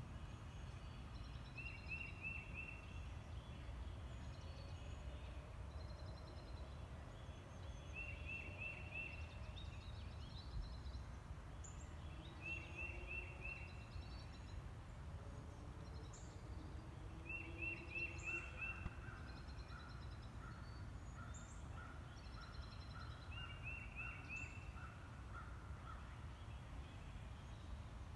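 Birds calling: one repeats a quick phrase of four or five high notes every four to six seconds, and past the middle another joins with a steady series of lower notes about twice a second, over a low rumble.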